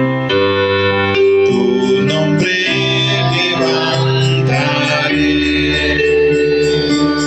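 Worship music played on an electronic keyboard with an organ sound: held chords over a low bass, changing every second or two.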